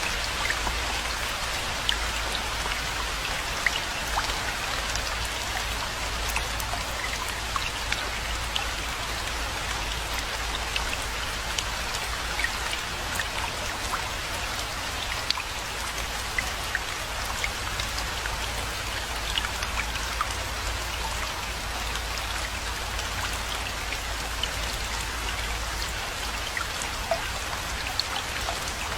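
Steady rainfall: a dense, even hiss of rain with many individual drops ticking sharply on surfaces, over a low steady rumble.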